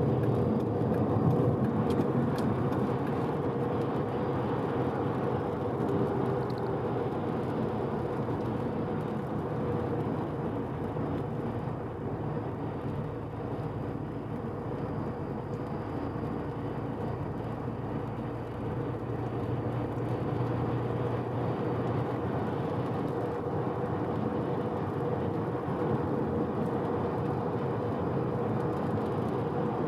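Mazda FD3S RX-7's twin-turbo two-rotor rotary engine cruising at a steady, moderate speed with tyre and road noise. The freshly rebuilt engine is being run in gently.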